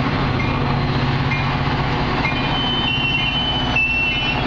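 Metra commuter train's diesel locomotive running with a steady low hum, with a short high bell-like ding about once a second and a thin high squeal through the second half.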